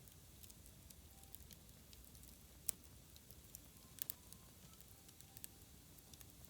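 Wood bonfire burning quietly, with sparse sharp crackles and pops: one louder pop about a third of the way in and a quick pair a little past halfway.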